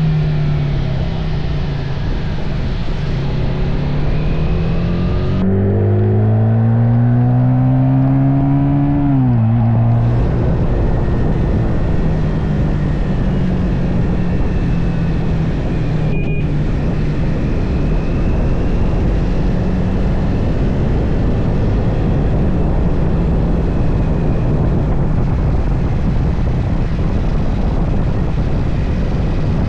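Triumph Speed 400's single-cylinder engine running on the move over a steady rushing noise. About five seconds in the revs climb for some four seconds, drop sharply, then hold steady.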